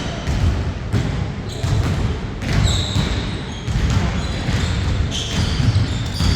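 A basketball bouncing repeatedly on a court floor during play.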